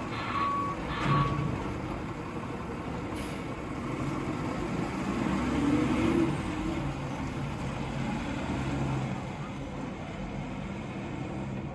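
Garbage truck backing up, its reversing alarm giving its last two beeps in the first second before stopping, while the diesel engine keeps running with a low rumble that swells briefly around six seconds in.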